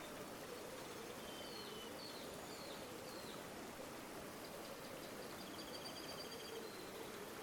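River water flowing steadily, with small birds calling over it: a few short chirps in the first half, then a rapid trill a few seconds later.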